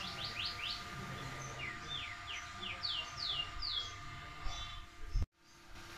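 A bird chirping in a series of quick down-slurred notes over a faint steady hum; the sound cuts off suddenly a little after five seconds in.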